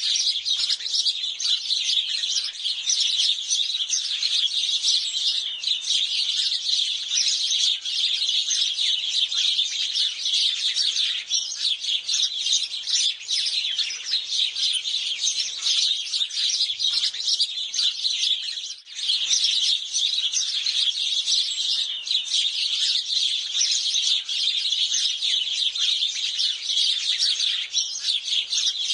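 A flock of sparrows chirping densely and continuously, many short overlapping chirps with a brief lull about two-thirds of the way through.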